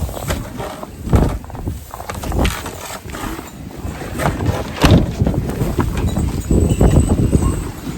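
Strong blizzard wind buffeting the microphone: a low rumble that swells and drops in gusts, with a few sharp knocks.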